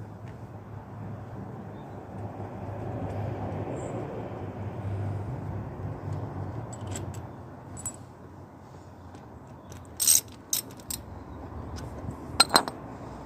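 Hand ratchet working the engine casing bolts, a steady rasping clicking, followed by a few sharp metallic clinks of tools or bolts about ten seconds in and again near the end.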